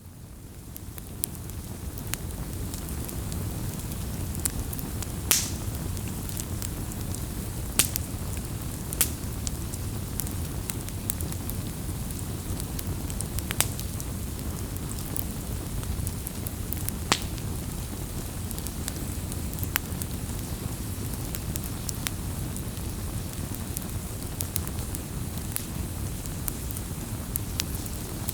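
Wood campfire burning: a steady low rumble of flames with frequent sharp crackles and pops from the burning wood, a few of them louder. The sound fades in over the first couple of seconds.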